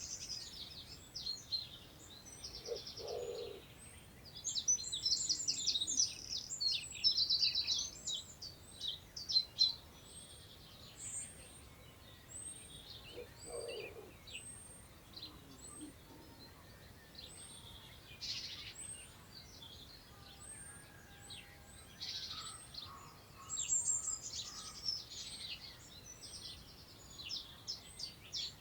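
Several wild songbirds singing together: busy chirping and trilled phrases, with a thin high note repeated about once a second through the second half. A short low call comes twice. Soft wind moves through long grass underneath.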